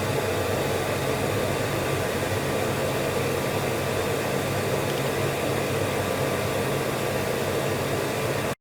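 A steady hum with an even hiss, like a running fan or motor, holding one level throughout and cutting off abruptly near the end.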